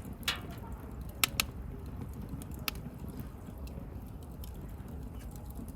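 Wood campfire burning: a low steady rush of flames with scattered crackles and a few sharp pops, the loudest a close pair about a second and a quarter in.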